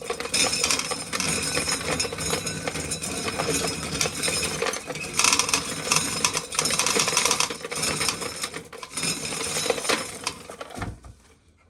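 Hand-cranked corn sheller stripping kernels from an ear of corn, with a dense rattle and clatter of kernels that goes on for about ten seconds and then stops.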